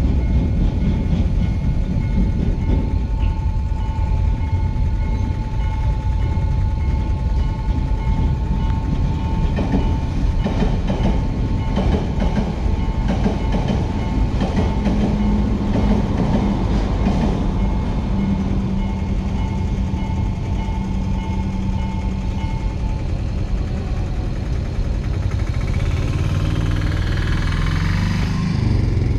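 A diesel passenger train runs through a level crossing, its wheels clattering rapidly over the rail joints for several seconds in the middle. A steady warning tone from the crossing sounds until about three quarters of the way through and then stops. Near the end a small engine revs up.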